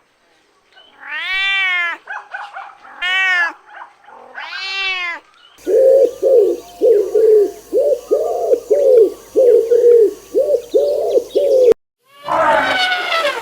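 A cat meows three times, each a long rising-and-falling call. Then a different recording starts: a rapid series of short, lower calls, about two a second, which cuts off abruptly. Near the end another loud, high animal call begins.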